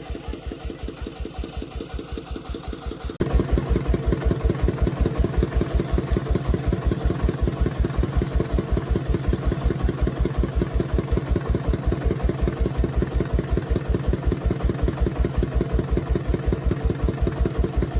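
Agricultural vehicle's engine idling with an even, slow chugging of about five beats a second. It becomes suddenly louder about three seconds in, with the same rhythm.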